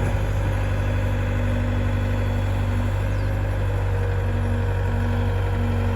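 Heavy diesel engine idling steadily, a deep even drone with fainter higher tones that come and go.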